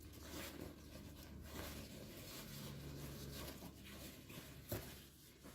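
Faint rustling and handling of a soft hooded hair dryer bonnet, with one short click near the end.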